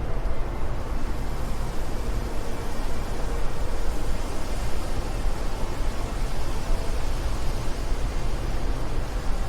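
Wind blowing steadily: a dense rushing noise with a heavy low rumble, its hiss growing slightly brighter in the middle.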